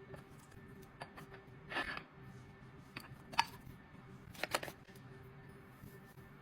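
Scattered light clicks and taps of containers and items being handled and set down, with a brief rustle near two seconds in and a quick double tick a little past four seconds, over a steady faint hum.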